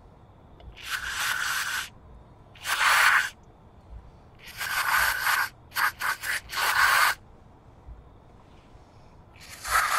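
Aerosol can of brake parts cleaner spraying in short hissing bursts into a brake caliper bracket, with a quick run of short squirts in the middle. The spray is blasting back off the metal.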